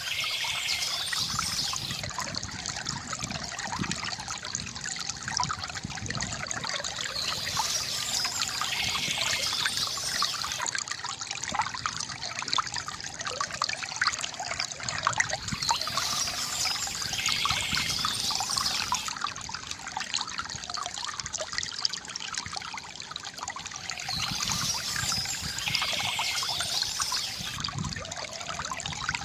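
Water trickling and splashing steadily from a bamboo fountain, with many small gurgles and drips. A brighter high-pitched stretch swells back in about every eight seconds.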